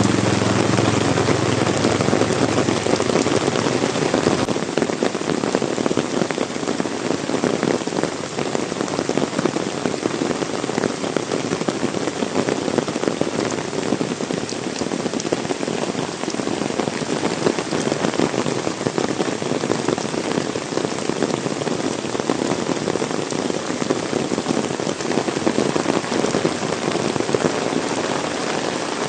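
Heavy rain falling steadily and pattering densely on the ground and surrounding surfaces. A low engine hum carried over from just before fades out in the first second.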